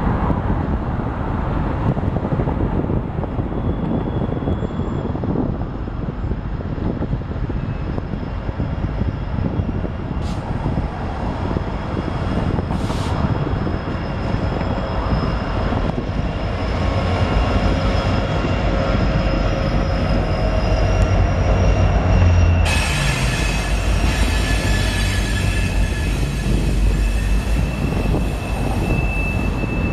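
Train led by a diesel locomotive approaching and passing, with a steady heavy rumble throughout. Over the second half come steady high-pitched wheel squeals, which grow sharply louder about three quarters of the way in.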